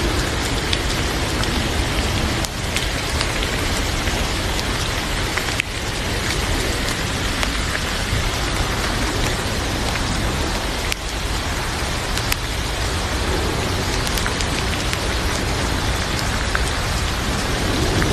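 Heavy rain falling steadily, with a few sharp clicks scattered over it.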